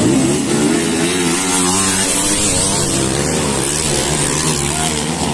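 Small single-cylinder motorcycle engine, a 110 cc bike built up to 125 cc, running continuously with its pitch rising and falling as the throttle is worked.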